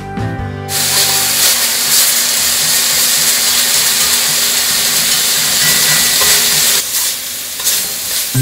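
Julienned carrots sizzling in hot oil in a wok as they are stir-fried. The loud, even sizzle starts about a second in and eases a little near the end.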